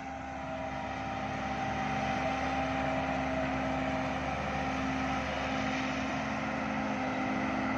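Heavy construction machine's diesel engine running under load, a steady drone that grows louder over the first couple of seconds and then holds.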